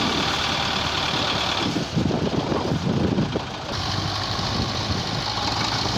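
Tractor engine running continuously, heavier and more uneven for a couple of seconds in the middle, then a steadier low hum.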